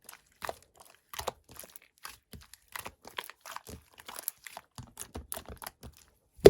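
Red pearl slime being squeezed and poked by hand, giving irregular sticky clicks and small pops a few times a second, with one sharper, louder click right at the end.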